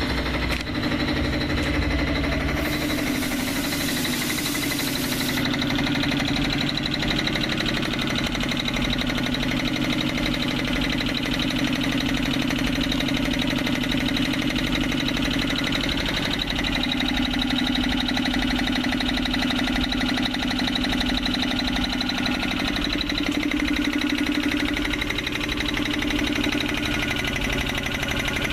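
Borewell air compressor driven by a 2 HP single-phase electric motor, switched on and running steadily with a constant hum and fast mechanical pulsing, on its test run after the burnt coil was rewound and the bearing and capacitor replaced. A brief hiss joins in between about three and five seconds in.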